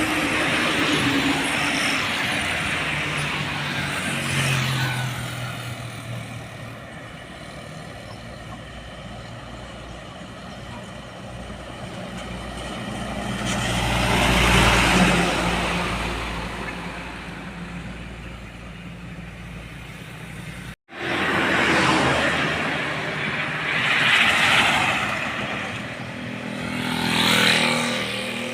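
Trucks and other vehicles passing by on a road one after another, engine and tyre noise swelling and fading with each pass. The sound cuts out for a moment about two-thirds of the way through.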